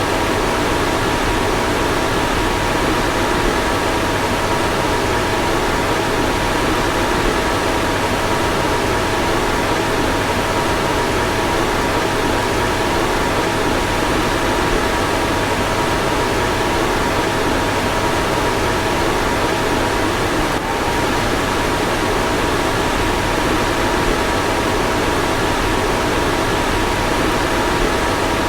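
Car fan blowing steadily: an even rush of air with a faint, steady whine running through it, and a single brief tick about twenty seconds in.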